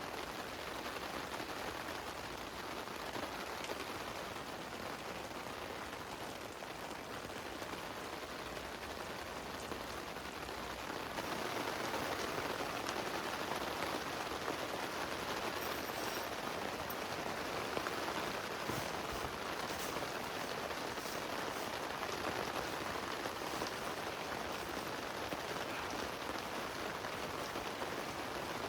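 Heavy rain falling steadily on a tent, a dense even hiss of drops that steps up to a louder level about eleven seconds in.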